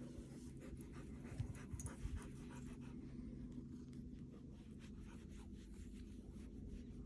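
A dog panting, faint and steady, over a low steady hum.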